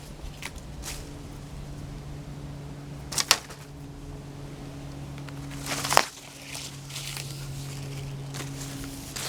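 Two sharp knocks, about three seconds apart, over a steady low mechanical hum.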